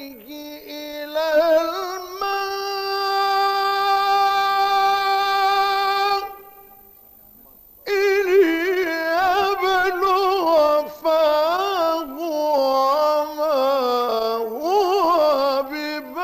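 Male Quran reciter's solo voice in melodic tajweed recitation. He holds one long steady note for about four seconds, pauses for about a second and a half, then sings a run of wavering, ornamented phrases.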